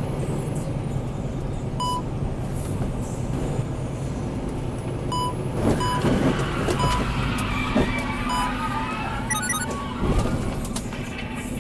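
A vehicle's engine and road noise from a dashcam, with several short high beeps and a few knocks or thumps around the middle and near the end.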